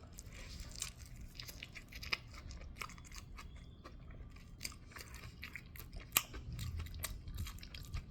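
Close-up chewing of a crunchy deep-fried chicken sandwich: scattered crisp crunches and wet mouth clicks.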